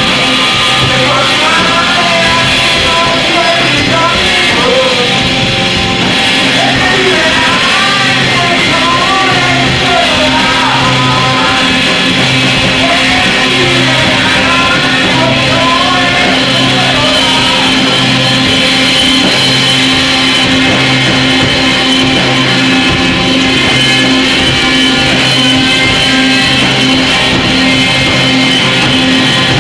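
Loud distorted noise music: a dense, unbroken wall of sound with a low note pulsing about once a second, and warbling higher tones that bend up and down over it.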